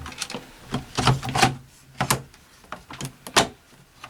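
A string of short clicks and knocks, about eight of them, the loudest near the end: the radio's case and parts being handled and fitted on a workbench.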